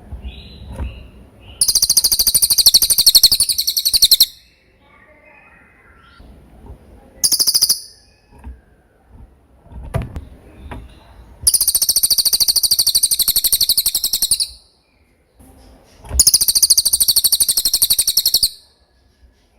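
Cililin singing: four loud, very fast high-pitched trilled phrases, three lasting two to three seconds and a short one between the first two, with quieter chirps and noises in the gaps.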